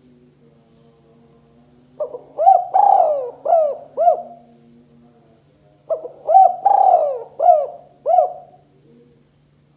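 Spotted dove (tekukur) cooing its 'kuk 2' song type: two phrases about four seconds apart, each a quick run of short arched coos with one longer coo in the middle. A faint steady hum lies underneath.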